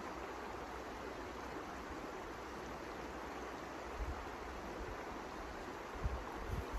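Wind in a snowstorm: a steady rush, with low gusts buffeting the microphone about four seconds in and again near the end.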